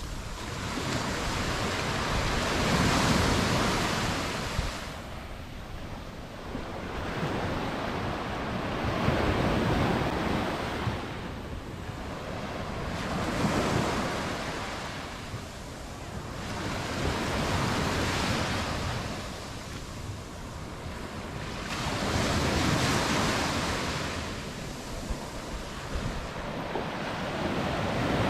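Mediterranean surf breaking and washing up the beach. About six waves swell and fade in a row, one every four to five seconds.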